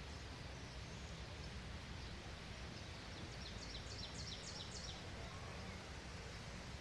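A small bird calling a quick run of about seven short, high notes, each sliding down in pitch, about halfway through, over a steady faint outdoor hiss.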